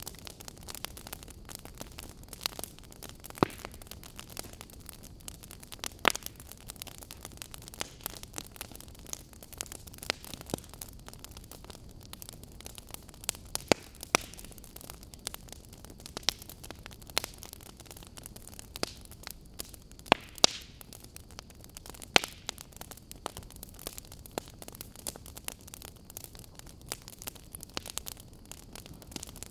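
Wood fire burning: a steady low hiss with irregular crackles and occasional sharp pops from the burning logs.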